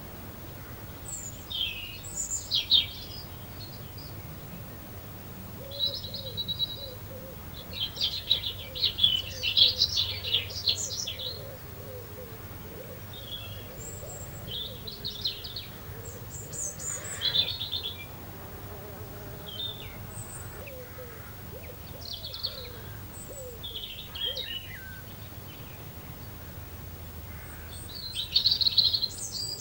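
Small garden birds chirping and twittering in short bursts every second or two, busiest for a few seconds in the middle and again near the end, over a faint steady low rumble.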